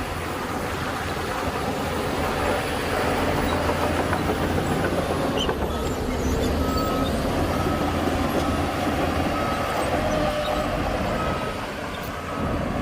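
Heavy diesel earthmoving machinery running steadily, getting louder about two seconds in. From about halfway through, a reversing alarm beeps about once a second.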